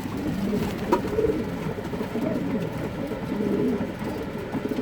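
Racing pigeons cooing, several birds' low, arching coos overlapping and repeating throughout, with a single sharp click about a second in.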